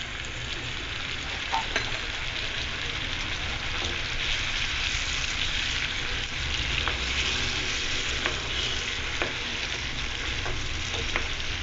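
Mixed vegetables and freshly added chopped tomatoes sizzling in hot oil in a pan while being stirred with a wooden spatula: a steady frying hiss with a few sharp knocks of the spatula against the pan.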